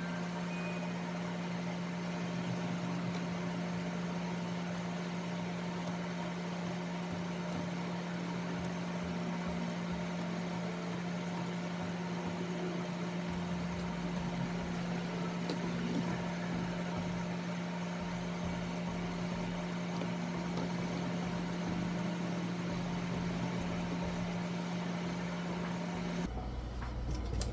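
Electric dog grooming clippers running with a steady hum, switched off about 26 seconds in.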